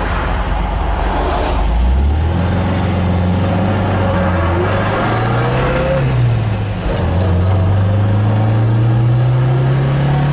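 1967 MGB GT's 1.8-litre four-cylinder engine, heard from inside the cabin, idles and then pulls away. It revs rising through first gear, drops briefly at a gear change about six seconds in, and climbs again in the next gear.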